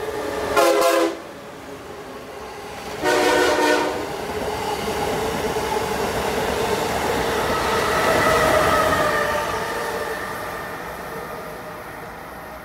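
Amtrak Acela Express trainset sounding its horn twice, a short blast and then a longer one, as it runs through the station at speed without stopping. After the blasts comes the steady noise of the train going by, loudest about eight seconds in and then fading.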